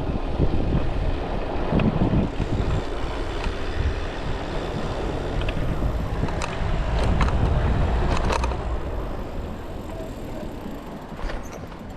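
Wind rumbling on a cyclist's chest-mounted camera microphone over street traffic noise, with a few sharp clicks a little past halfway; it eases off near the end.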